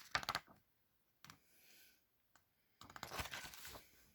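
Faint clicks and crinkly paper rustling as a picture book is handled and a page is turned. There is a cluster of clicks at the start, a single click about a second in, and a second of rustling near the end.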